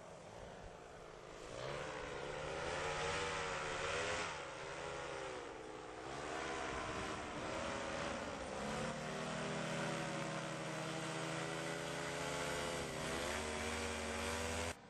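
Paramotor engine and propeller running, its pitch wavering up and down. It comes in a couple of seconds in and cuts off suddenly near the end.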